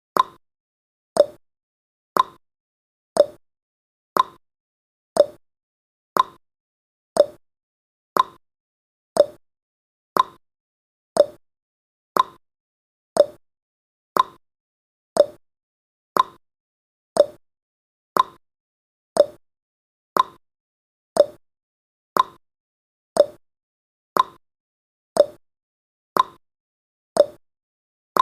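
Countdown timer tick sound effect: a short, pitched tick once every second, each dying away quickly, in a steady even rhythm.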